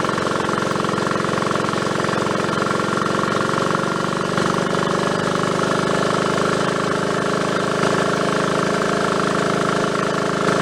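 Triumph Tiger Cub's small single-cylinder four-stroke engine running steadily with a rapid pulsing beat. Its pitch shifts slightly about four seconds in.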